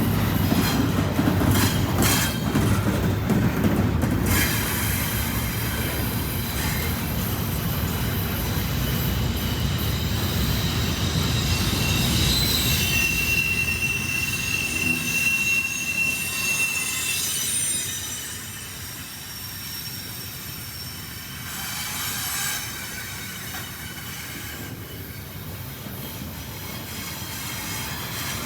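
Freight train cars rolling past, a heavy rumble of wheels on rail with a few sharp clicks early on and a thin high wheel squeal about halfway through. The rumble drops off about two-thirds of the way in, leaving faint high squealing, then builds again near the end.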